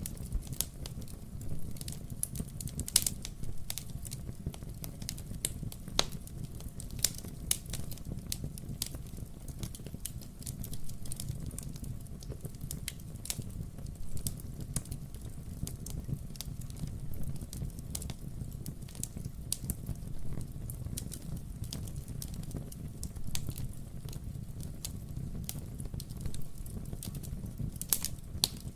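Wood-burning fireplace crackling steadily: many sharp snaps and pops from the burning logs over a low, even rumble of the flames, with a few louder pops now and then.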